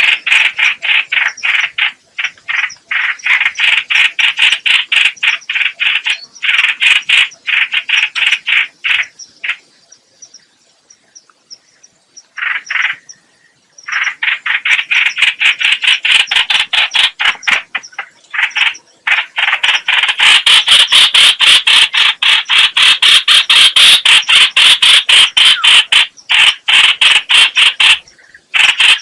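Trao trảo (hoành hoạch) bird calling: long runs of rapid, harsh chattering notes, many to the second. The calling breaks off for about two seconds around ten seconds in, then comes back denser and louder from about twenty seconds in.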